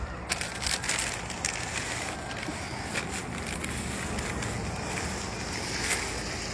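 Close, crackling rustle with many small clicks, handling noise right at the microphone, starting suddenly and carrying on throughout.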